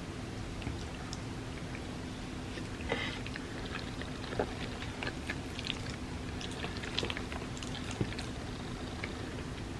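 Close-miked eating of creamy rice pudding: soft chewing with many small wet mouth clicks, starting about three seconds in, over a steady low hum.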